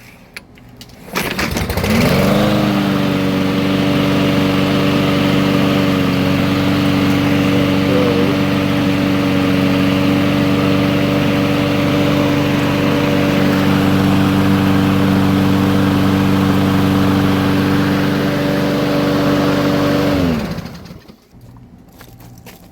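Husqvarna all-wheel-drive lawn mower engine starting about a second in and running at a steady speed for about eighteen seconds, then shutting off. It runs now that the stuck carburetor float has been freed.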